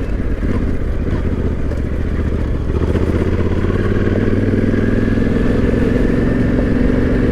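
Yamaha Ténéré 700's parallel-twin engine running steadily as the bike is ridden, its note growing a little louder and steadier about three seconds in.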